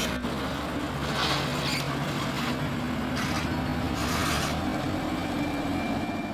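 2015 BMW M4's twin-turbo straight-six running at low revs as the car pulls slowly away and turns, with several short bursts of hiss over it.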